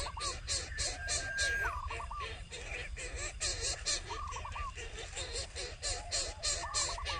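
Birds calling: a rapid, continuous chatter of short repeated notes, with brief higher trilled phrases of three or four quick notes every second or two and a held whistle about a second in.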